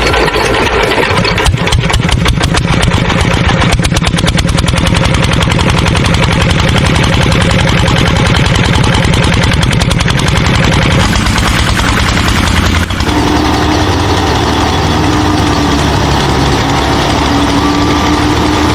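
Small engine of a DIY mini combine harvester running steadily with rapid firing pulses. Its sound changes about eleven seconds in, and a steady hum joins it about two seconds later.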